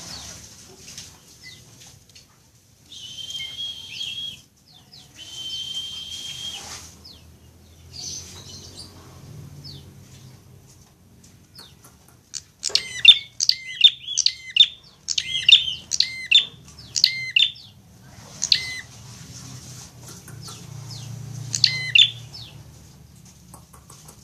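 Prinia (prenjak) calling: two long buzzing notes in the first few seconds, then about halfway a loud run of sharp, rapidly repeated chirps, with a few more bursts near the end.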